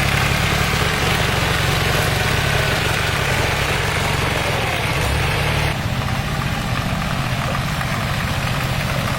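A motor-vehicle engine running steadily at idle with a fast low pulsing. About six seconds in the sound changes abruptly and becomes slightly quieter and duller, then runs on as before.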